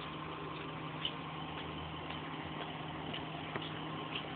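Stretch limousine's engine idling steadily, with a constant low hum.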